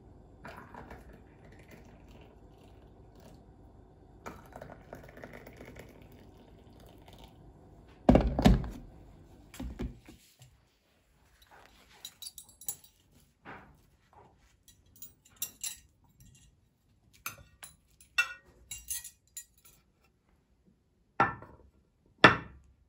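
Kitchen handling sounds: a faint low hum at first, then two heavy thunks, a run of light clinks of dishes and utensils, and two sharp knocks near the end.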